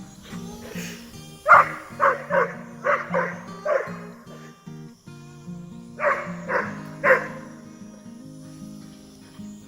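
A dog barking, a quick run of six barks from about a second and a half in, then three more around six to seven seconds, over background music.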